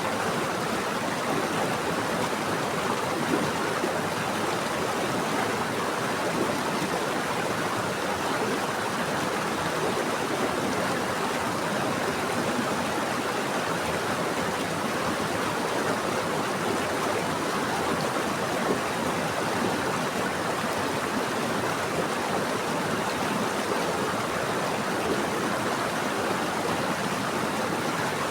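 Running water of a stream flowing over rocks, a steady even rush with small splashy ripples throughout.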